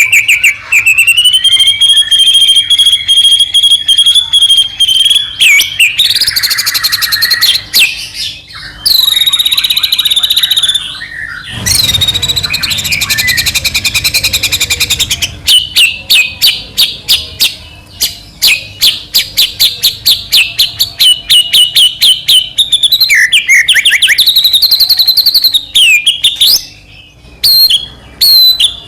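White-rumped shama (murai batu) singing loudly in full song: long runs of rapid repeated notes, sliding whistled phrases and fast trills, with hardly a pause.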